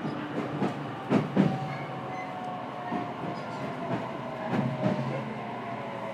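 Interior running sound of a JR Kyushu 817 series electric multiple unit, motor car KuMoHa 817-518: a steady rumble of wheels on rail, with two double clacks of wheelsets passing over rail joints, about a second in and again about four and a half seconds in. A faint whine runs underneath, falling slightly in pitch.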